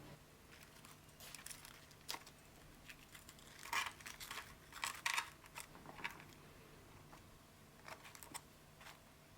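Scattered light clicks and clinks of small hard objects being handled, irregular, loudest about four and five seconds in.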